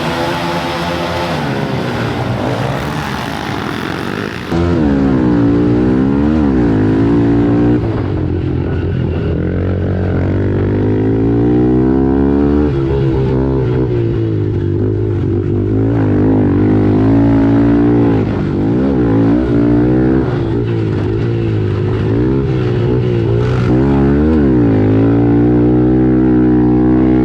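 110cc four-stroke pit bike engines racing, revving up and dropping back again and again as the riders go through turns and gears. The sound gets louder about four seconds in.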